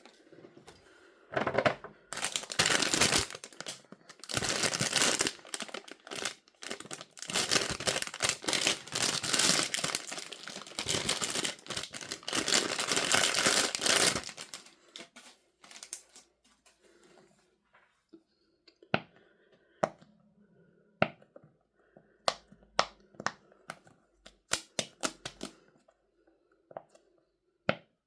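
Packaging being torn open and crinkled by hand, loud and dense for about the first half, then quieter handling broken by a series of sharp, separate taps.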